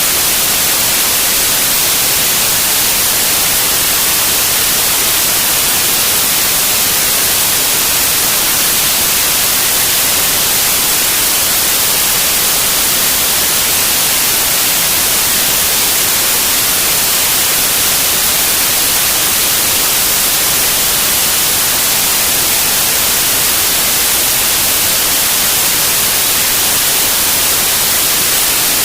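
Steady, loud static hiss from a CB radio receiver with its squelch open and no station transmitting.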